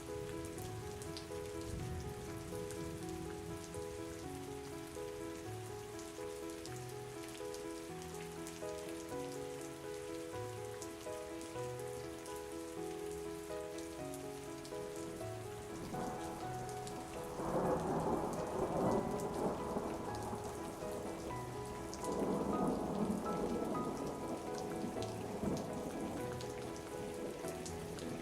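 Steady rain falling, with a soft melody playing under it. About two thirds of the way through thunder rumbles twice, the first peal lasting a few seconds and the second following shortly after.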